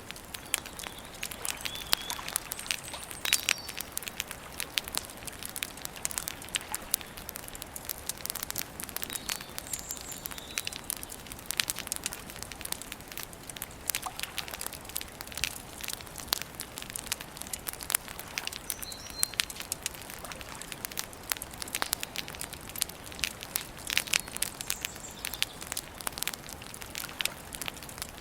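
Wood campfire crackling and popping steadily with many sharp snaps, while a few small birds chirp briefly now and then.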